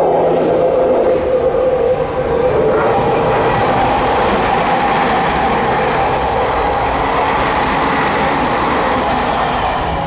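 Electric commuter train running past close by, a loud steady rush of wheels on rails with a faint whine over it. It starts abruptly.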